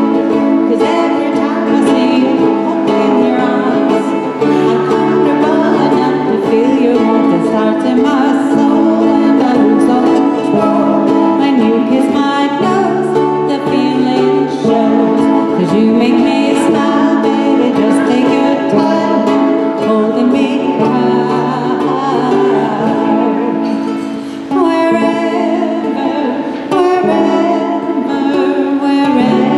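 Live music: plucked strings playing with a singing voice, held notes over a steady accompaniment.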